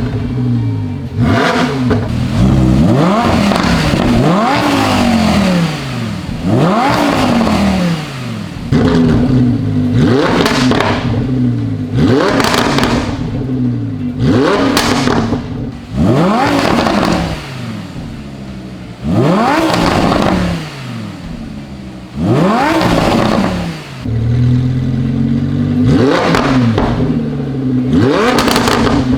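Lamborghini Huracan LP610-4's naturally aspirated V10 idling and being blipped over and over through its exhaust, about ten quick revs that climb sharply and fall back to idle.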